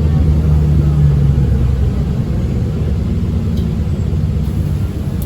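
Motor vehicle running, a steady low engine and road rumble.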